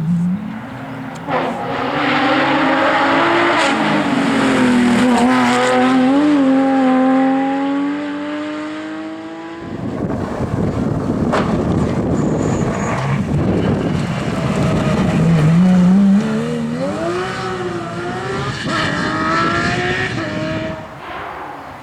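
Porsche 911 GT3 rally car's flat-six engine at high revs on a rally stage, its pitch rising and dipping with throttle and gear changes. About halfway through the note breaks off into a rough, noisy stretch, then the engine climbs hard again.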